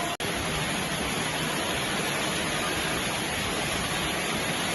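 Steady, even hiss of heavy rain, with a brief dropout just after the start.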